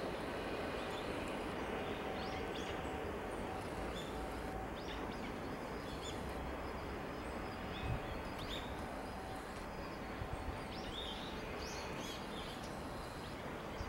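Steady outdoor background noise with small birds giving short high chirps now and then. There is a single low bump about eight seconds in.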